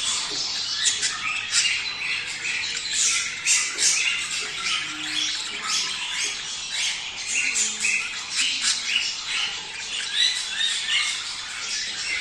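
Flock of budgerigars giving their mating chatter: a dense, continuous stream of overlapping squawks and chirps.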